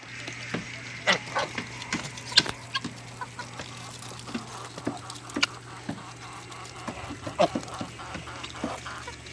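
Birds feeding, with short calls and sharp pecking clicks at irregular moments over a steady low hum.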